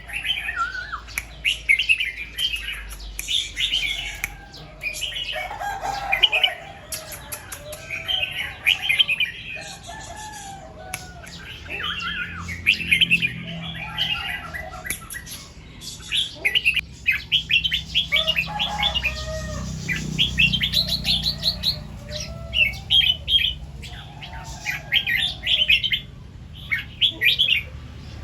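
Red-whiskered bulbuls singing: short bursts of quick, bubbly whistled phrases repeated every second or two, with lower curved notes from another bird in between.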